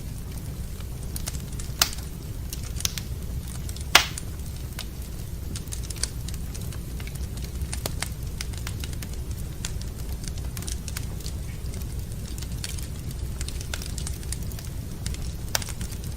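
Wood fire in a fireplace crackling, with scattered sharp pops, the loudest about four seconds in, over a steady low rumble.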